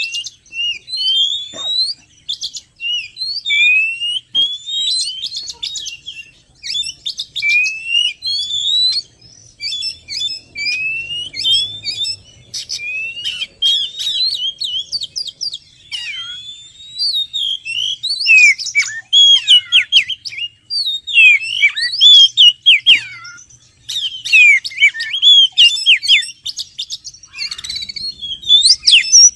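Oriental magpie-robin (kacer) song played as a lure call. Rising whistled phrases repeat every second or two, then about halfway through it turns to a faster run of varied falling and warbled notes.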